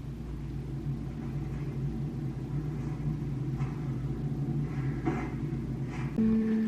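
Low steady rumble from a film soundtrack playing on a television, with a few faint knocks; a held musical tone comes in about six seconds in.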